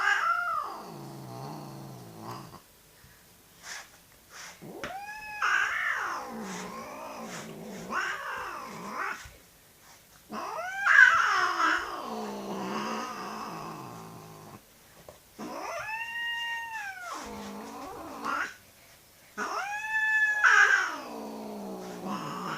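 Agitated domestic cat growling and yowling in five long drawn-out calls, each rising and then falling in pitch and trailing off into a low rumbling growl, with short pauses between. These are a cat's warning growls, which the owner likens to a diesel motor.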